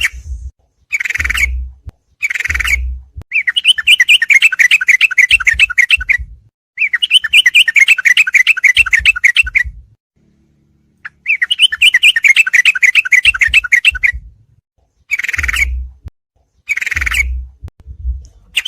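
Yellow-vented bulbul (trucukan) song played from a birdsong training recording: short chattering phrases alternating with longer rapid trills of two to three seconds, with brief silent pauses between them.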